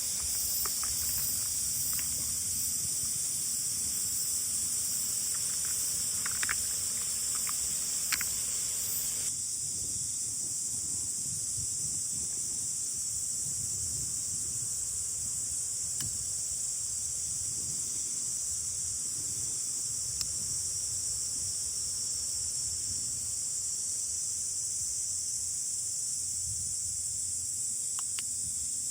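Steady high-pitched chorus of insects, with wind rumbling on the microphone underneath and a few light clicks in the first several seconds.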